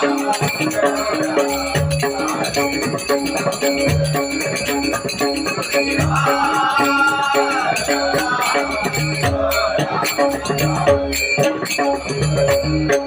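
Traditional bhajan music without words: a drum beating a rhythm under a melody line, with steady jingling of small hand cymbals.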